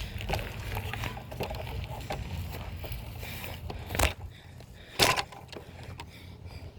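BMX bike rolling on pavement: a steady rumble of tyres with wind on the microphone, and two sharp knocks about a second apart past the middle, the loudest sounds.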